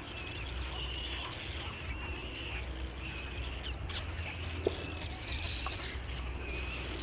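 Small birds chirping and twittering over and over, with a steady low rumble underneath and a single sharp click a little over halfway through.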